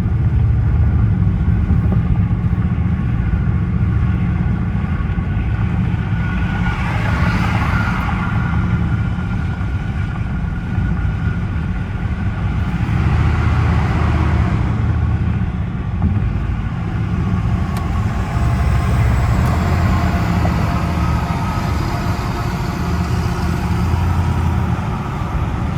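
Dodge Charger R/T's 5.7-litre Hemi V8 running steadily while driving, a low drone under road and tyre noise, with two brief swells of rushing noise about a third and halfway through.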